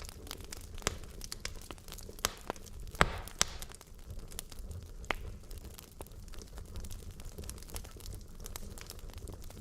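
Wood logs burning in a fireplace: irregular sharp crackles and pops over a low, steady rumble of flame, with the loudest pops about three seconds in.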